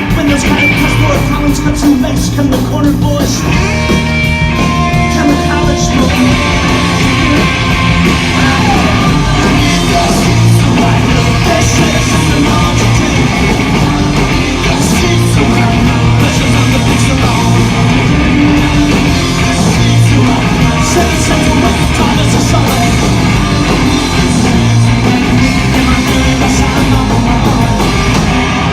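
Live punk rock band playing loudly: electric guitars, bass and drums in full band sound, with no pause.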